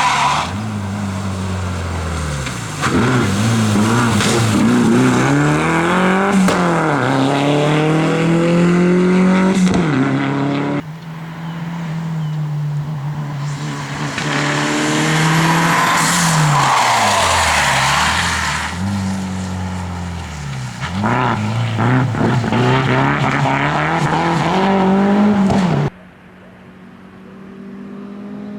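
Toyota Celica rally car's engine at full effort on a stage, its pitch climbing and dropping again and again through gear changes and lifts. About 26 s in the loud engine sound breaks off abruptly, and a quieter, slowly rising engine note follows.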